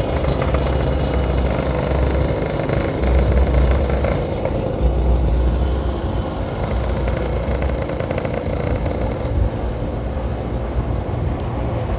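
Yamaha RX King 135cc two-stroke motorcycle engine running steadily while riding, with a low, uneven wind rumble on the microphone.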